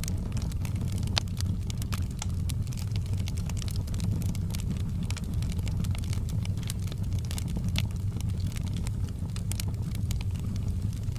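Wood fire crackling in a fireplace: frequent small sharp pops and snaps over a steady low rumble of the burning fire.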